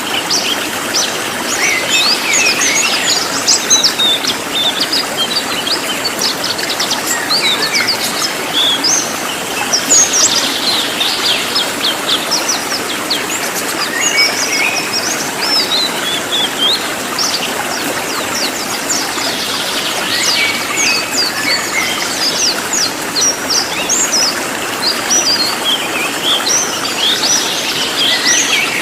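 Cililin songbird singing loud, dense runs of very short, high-pitched chirps in quick succession, over a steady hiss of running water.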